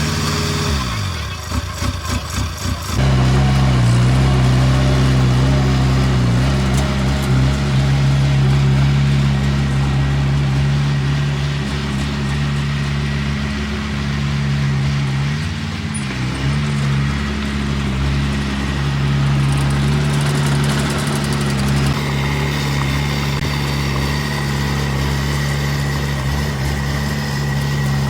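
Diesel engine of heavy construction machinery running steadily. Near the start it dips and pulses for a couple of seconds, and about halfway through its pitch wavers briefly.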